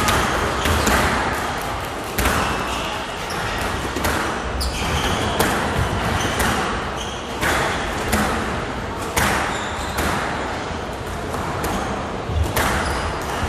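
A squash rally: the ball struck by rackets and hitting the court walls in sharp, echoing cracks about once a second, with short squeaks from players' shoes on the court floor.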